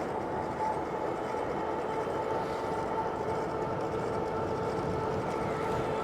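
Electric cargo bike under way: the motor whines steadily over a constant rush of tyre and wind noise.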